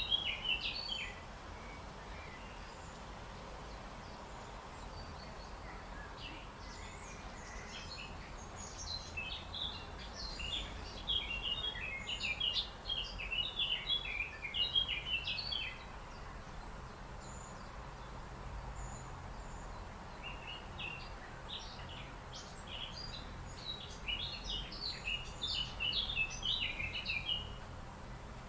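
A songbird singing in long runs of rapid, high chirps, each run lasting several seconds with pauses between, over a steady low background rumble.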